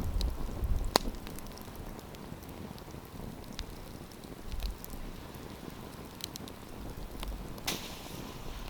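Wood campfire crackling, with scattered small snaps, one sharp pop about a second in and a short hissing flare near the end.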